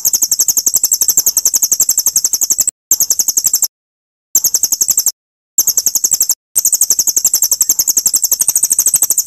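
Songbird singing a fast, even, high-pitched trill in five phrases, the longest running on through the end, each breaking off abruptly into dead silence, as in an edited bird-song training recording.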